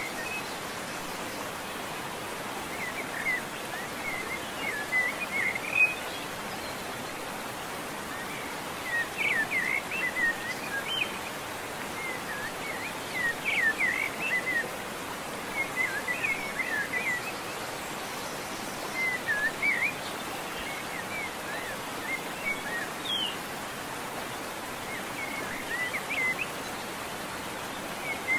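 Small birds chirping in short bursts every few seconds over a steady background hiss.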